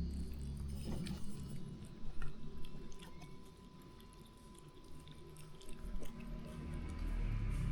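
A pet chewing and eating food, with scattered small clicks and crunches that thin out in the middle.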